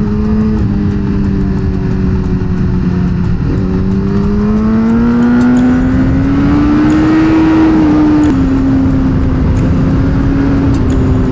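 Suzuki GSX-R1000R inline-four engine running under way on the road, with steady wind noise. The revs hold, then climb slowly for about four seconds, drop a little and ease off.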